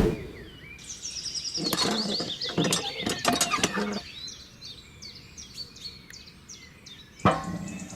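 Small birds chirping and tweeting in short pitch-sweeping calls, with a run of sharp clicks and knocks between about two and four seconds in and a sudden louder sound near the end.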